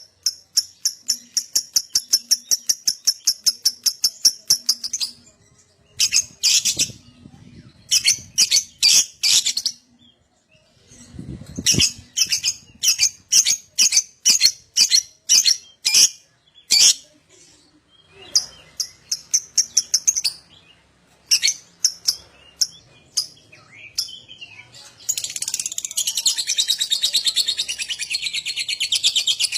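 Lovebird calling in runs of sharp, high chirps, several a second, broken by short pauses. About 25 seconds in it breaks into a long unbroken rapid chatter: the 'ngekek' song that lovebird keepers try to draw out.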